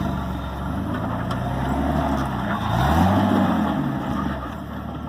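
Off-road vehicle engine running, revving up about two and a half seconds in and easing back down.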